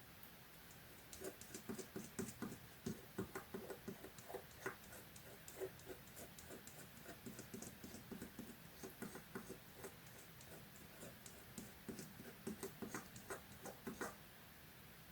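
Quick, irregular soft tapping and scratching of hands working on paper during collage-making. It starts about a second in and stops shortly before the end.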